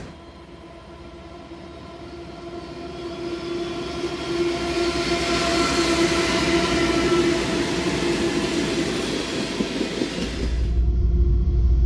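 GE ES44AC diesel-electric locomotives pulling a freight train past close by, their engines growing louder as they come up, with steady humming tones over the rumble of the train. Near the end the tank cars roll past with a heavier low rumble.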